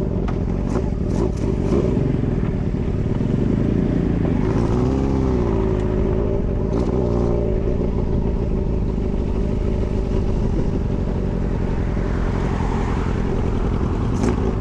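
Engine-swapped custom motorcycle running on the move, steady, with the revs wavering up and down about four to six seconds in.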